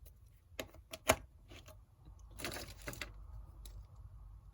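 Small plastic LEGO minifigure parts being handled: a few sharp clicks about a second in, then a short rustle.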